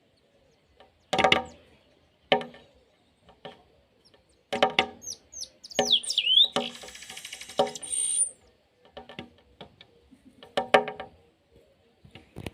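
Birds calling: a string of short, separate calls, with thin high chirps and a whistle from a small bird around the middle, over a brief scratchy noise.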